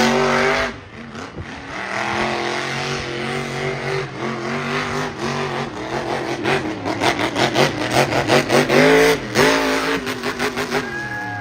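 Monster truck's supercharged V8 engine at full throttle: it revs up sharply at the start, holds a steady drone, then revs up and down several times. Through the middle and latter part it runs with a rapid, rough crackle.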